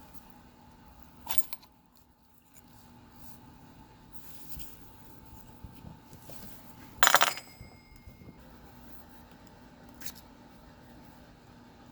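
Small metal fan parts clinking and being set down on a hard surface while an antique electric fan is taken apart. The loudest is a single bright metallic clink about seven seconds in that rings briefly, with lighter clicks before and after it.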